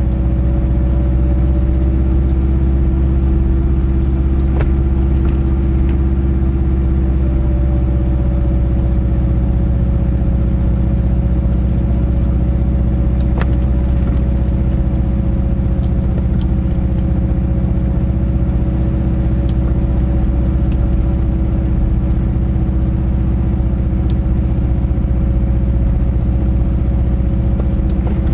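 Subaru Leone flat-four boxer engine running at a steady cruise with its low, uneven rumble, the car driving at an even speed with no revving. A couple of faint sharp ticks sound partway through.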